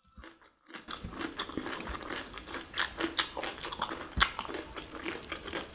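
Close-miked wet chewing and lip smacking on a mouthful of rice and curry, mixed with the soft squish of fingers working rice and curry on a plate. It begins after a brief near-silent moment, and there is one sharp click about four seconds in.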